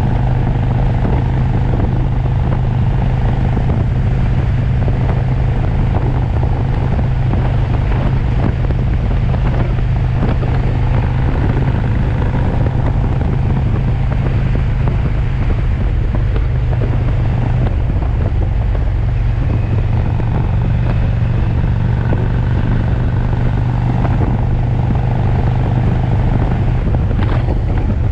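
V-twin motorcycle engine running steadily at cruising speed, with wind noise on the microphone.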